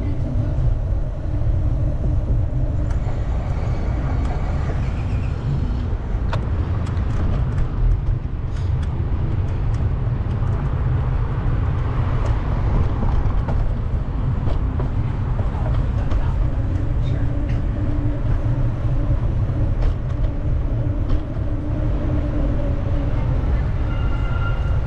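Wind buffeting the microphone on a moving bicycle, a steady low rumble, with city traffic going by underneath it.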